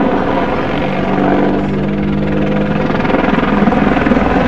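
Army Air Corps Apache attack helicopter flying a display, its rotors and turbine engines loud and steady with a fast low pulsing. A steady multi-tone hum stands out for about two seconds in the middle.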